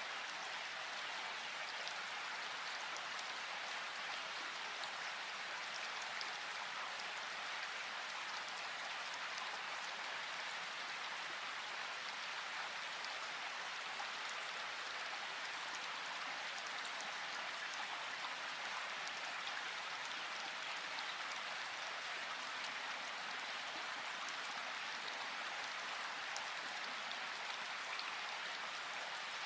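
River water flowing and splashing, a steady, even rushing that does not change.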